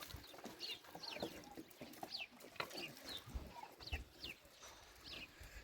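Chickens: many short, high, falling chirps repeating every half second or so, with some lower clucking underneath.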